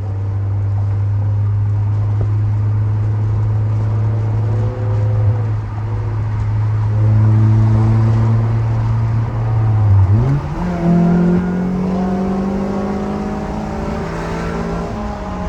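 Straight-piped Nissan Z car's exhaust running at a steady idle, then the revs rise about ten seconds in and hold at a higher, steady pitch.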